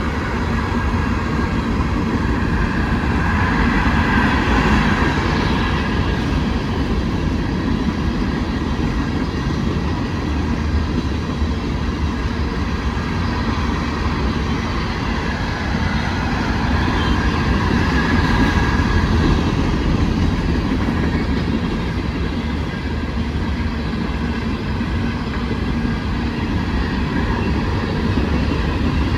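An empty coal train's cars rolling past steadily, a continuous rumble of wheels on rail that swells slightly twice.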